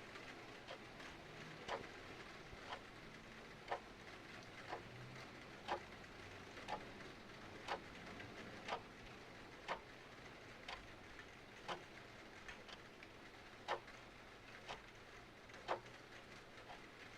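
Clock ticking about once a second, the ticks alternating louder and softer, over a steady faint hiss of rain.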